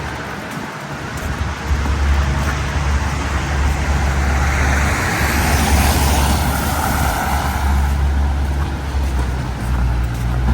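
City street traffic: a vehicle passes, its noise swelling to a peak about six seconds in and then fading, over a steady low rumble.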